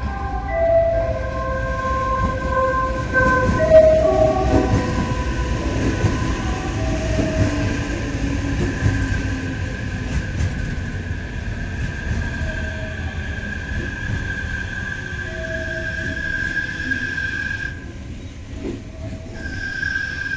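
Odakyu 50000 series VSE Romancecar playing its music horn, a short melody of stepped notes over the first few seconds, as it rolls into the station. After that the passing train gives a steady high whine over a low rumble; the whine drops out briefly near the end and then comes back.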